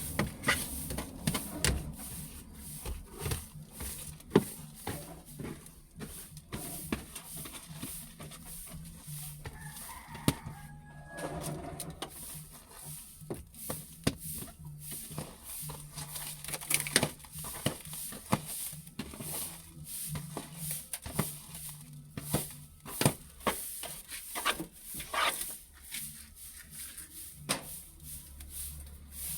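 Irregular clicks, taps and small knocks of things being handled and wiped during cleaning inside a car, over a steady low hum.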